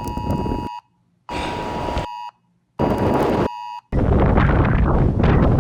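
Emergency-alert attention tone, a steady two-pitch beep from a phone's snow squall warning, heard in three short pieces cut apart by dead silence and mixed with a rush of wind. From about four seconds in, strong gusty wind buffets the microphone.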